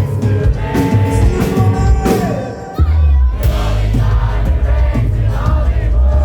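Live band performance: a song with sung vocals over a heavy bass and drums. The music dips briefly about two and a half seconds in, then comes back at full level.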